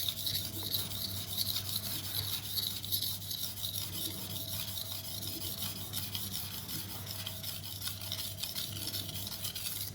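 Stainless steel chef knife edge being ground back and forth with light pressure on a wet Naniwa Pro 320 grit water stone: a steady scraping hiss as the coarse stone removes metal to raise a burr. The grinding stops abruptly at the very end.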